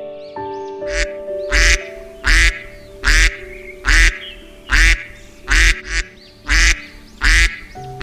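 Duck quacking over and over, one loud quack roughly every three-quarters of a second, over soft background music with long held notes.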